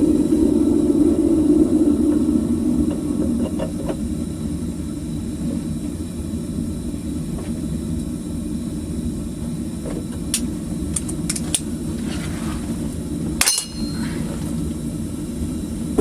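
Propane burner of a homemade furnace running with a steady low rush. It eases off slightly over the first few seconds, and a few sharp clicks and one louder knock come near the end.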